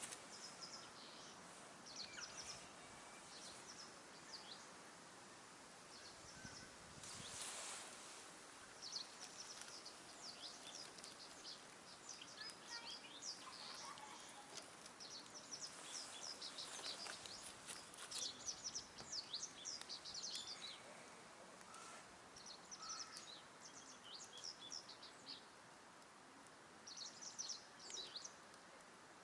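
Small birds chirping in quick, repeated high calls, in clusters, over a faint steady background hiss, with a brief whoosh of wind about seven seconds in.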